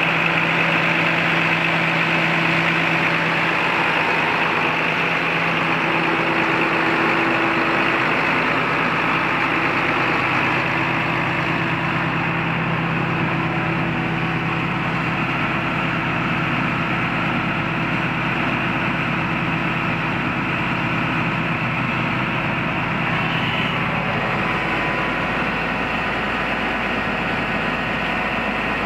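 John Deere 8300 tractor's six-cylinder diesel engine idling steadily.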